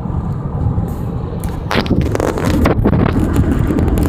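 Car cabin road noise at freeway speed, a steady low rumble and hiss, with a few brief sharp noises a little before and just before three seconds in.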